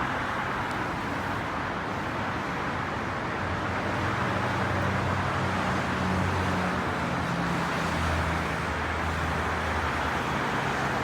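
Steady roar of highway traffic passing at speed, with a deeper engine hum from a heavier vehicle joining about three seconds in and fading near the end.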